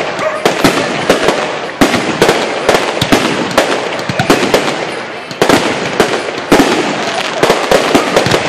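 Fireworks display firing in rapid succession: a loud, uneven run of bangs and bursts, several a second, over a continuous crackling hiss.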